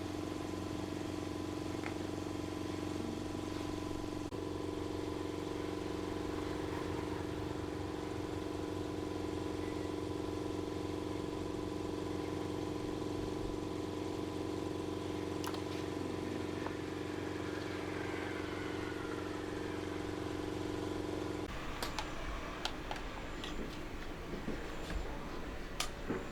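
Repaired electric fan's motor running on test with a steady hum; the hum shifts about four seconds in, then it is switched off about 21 seconds in, followed by clicks of handling.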